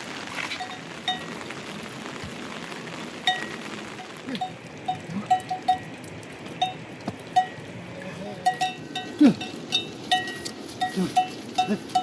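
A livestock bell clanking irregularly: one ringing note struck again and again in uneven clusters, more often in the second half, over a steady hiss of rain.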